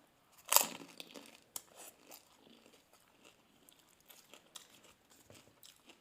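Crisp doi fuchka shells (pani puri filled with yogurt) being bitten and crunched. There is one louder bite about half a second in, then faint, scattered crunches and chewing.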